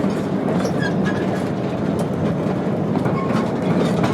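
Train running along the track, heard from aboard a passenger car: a steady rumble of wheels on rails with some clickety-clack.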